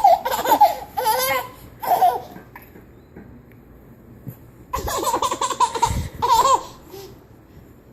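A baby laughing in two bouts of high-pitched, pulsing laughter, the second starting about five seconds in.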